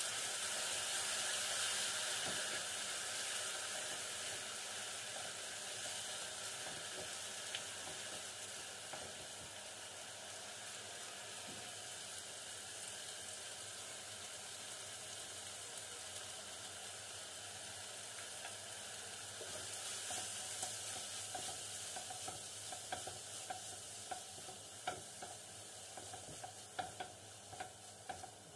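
Onion and tomato masala sizzling in a nonstick frying pan over medium heat while a silicone spatula stirs it. From about two-thirds of the way in, the spatula scrapes and taps against the pan in a run of short sharp clicks.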